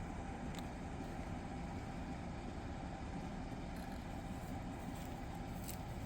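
Steady low rumble of an idling vehicle engine, with even street background noise.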